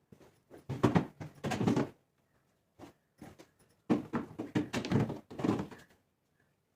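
Knocks and thunks of containers and jars being set onto fridge shelves and moved about, in two busy clusters.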